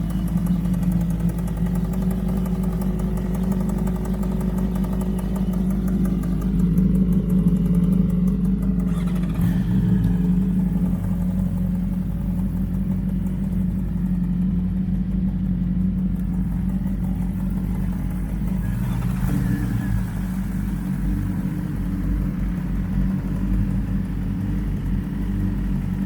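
Several sportbike engines idling together, among them the 2012 Honda CBR1000RR Fireblade. The combined engine note swells about seven seconds in and shifts again around nineteen seconds, as another bike starts or is blipped.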